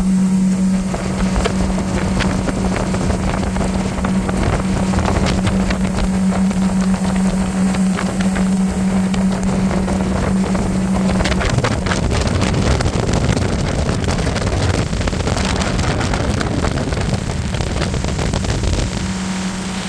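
Motorboat running under way with a steady engine hum that fades out about halfway through and comes back near the end. Wind buffets the microphone and the hull rushes through the water.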